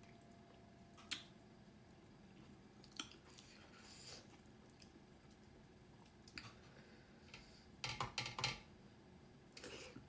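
Close-miked eating: scattered wet mouth clicks and chewing sounds, with a quick cluster of smacks about eight seconds in.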